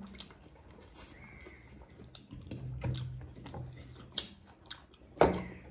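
Close-up chewing and biting of food, with scattered small wet mouth clicks and a sharper, louder click near the end.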